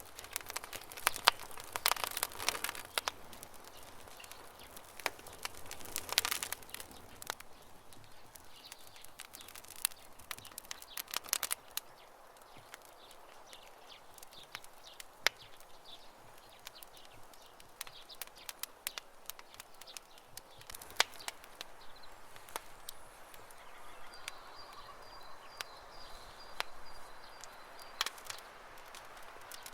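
Campfire crackling with irregular pops and snaps, in thicker clusters in the first few seconds and around six seconds in. A bird chirps faintly in the background, with a thin high call near the end.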